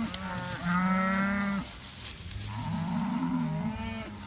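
Cows bawling as the herd comes in, several long overlapping calls, the loudest about a second in and another round near the end. The cows are calling for their calves, which were left behind at the back of the drive.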